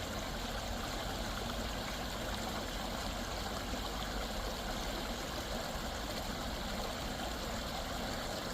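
A small stream's water running steadily.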